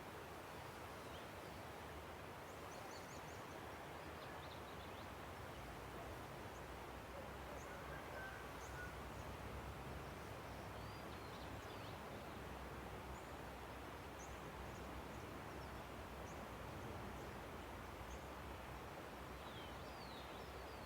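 Steady rush of a river, with faint, scattered high chirps and short trills of songbirds over it.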